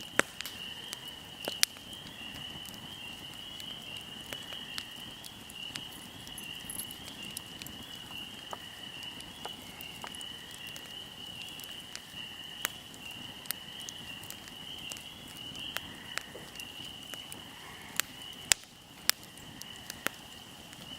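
Wood fire crackling, with sharp pops at irregular intervals, over a steady high chirring of insects.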